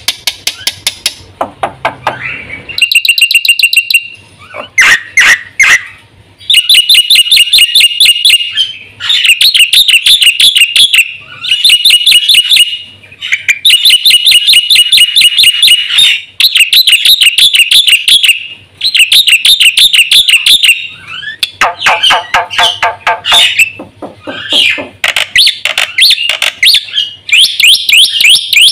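Black-winged myna (jalak putih) singing loudly in bursts of rapid, evenly repeated chattering notes, each run lasting one to two seconds with short pauses between runs.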